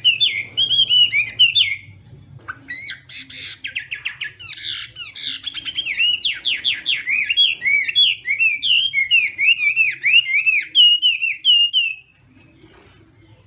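Chinese hwamei in loud, varied fighting song: rapid rising and falling whistled phrases mixed with fast trills. It stops abruptly about twelve seconds in.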